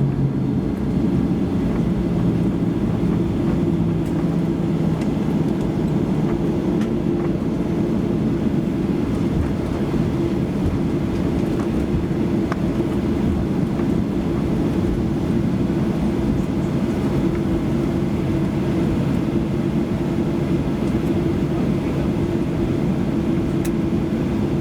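Steady cabin noise inside a Boeing 737-800: a constant low engine hum with an even rumble, heard from a window seat.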